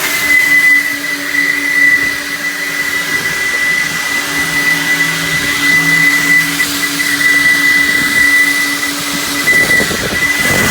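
JE Adams Turbo Vac car wash vacuum running with an extremely horrible whistling: a steady high whistle over the rush of air through the hose and a lower motor hum.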